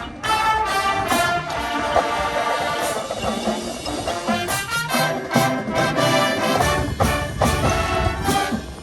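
Brass band playing a sustained passage with drums and cymbal strikes cutting through.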